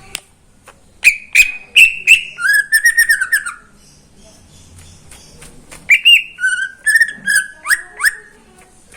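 Cucak ijo (green leafbird) singing loud, sharp whistled notes and rapid trilled phrases. The song comes in two bursts, the second ending in quick downward-sweeping notes, with a short pause between them.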